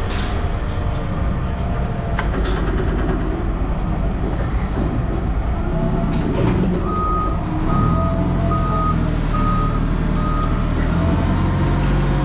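Truck engine running with a low rumble while its reversing alarm beeps about five times, evenly spaced, from about seven seconds in. A sharp metallic clank comes just before the beeps.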